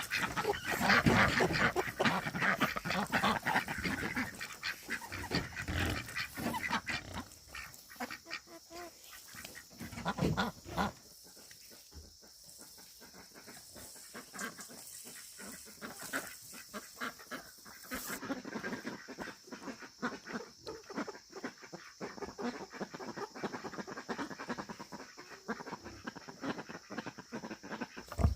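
Farm poultry calling, loudest through the first ten seconds or so and then fainter, with scattered small crackling sounds.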